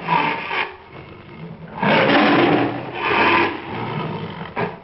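Tiger roaring and growling in several rough bursts, the loudest about two and three seconds in, breaking off shortly before the end.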